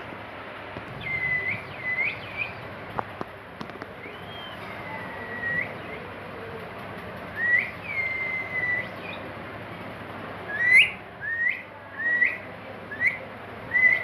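Caged pet bird giving clear whistled calls: a few short hooked whistles, then two longer drawn-out whistles, then a quick run of five short rising whistles near the end.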